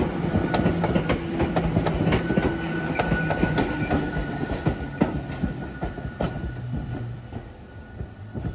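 Hakone Tozan Railway train running on the line, its wheels clicking over the rail joints over a low rumble and a steady whine, growing fainter toward the end.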